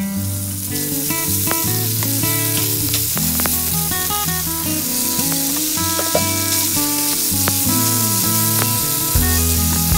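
Thinly sliced marinated beef sizzling in a hot frying pan with garlic, the sizzle starting as the meat is tipped in and carrying on steadily. Acoustic guitar music plays underneath.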